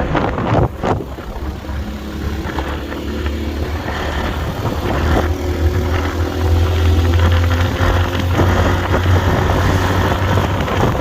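Motorcycle engine running steadily while riding, with a strong low drone.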